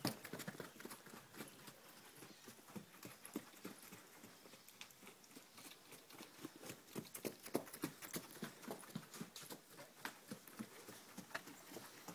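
Bonfire crackling: faint, irregular clicks and pops.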